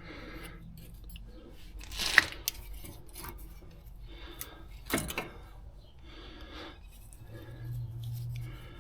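Metal tools and parts clinking and rattling during brake work, with two sharp metallic knocks, about two seconds and five seconds in. A low hum comes in near the end.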